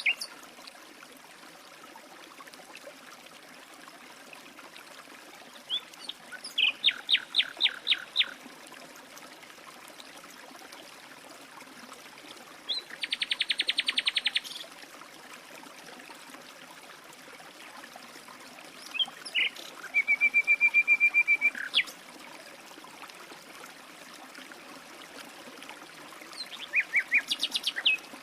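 Songbirds singing in separate phrases several seconds apart: a run of about eight repeated sweeping notes, then rapid trills, then a short string of notes near the end. Between phrases there is a steady faint hiss of running water.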